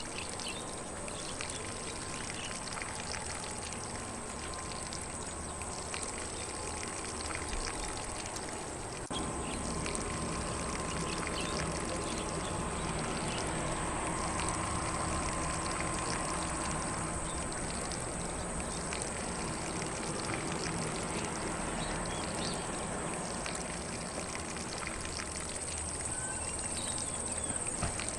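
Lawn sprinkler spraying water steadily over grass, a continuous splashing hiss that grows a little louder about nine seconds in.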